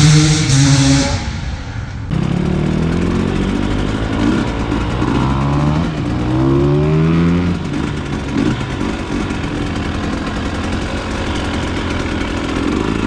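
The tail of a rap song cuts off about two seconds in, giving way to a dirt bike engine running and revving. Its pitch climbs in repeated rising sweeps about five to seven seconds in, then settles into steadier running.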